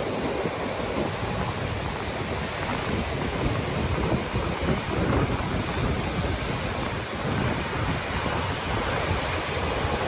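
Stormy sea surf breaking on the shore, with strong wind buffeting the microphone: a steady, even rush of noise with an irregular low flutter from the wind.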